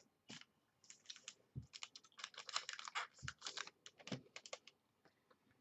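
Faint typing on a computer keyboard: irregular quick runs of keystroke clicks with short gaps between them.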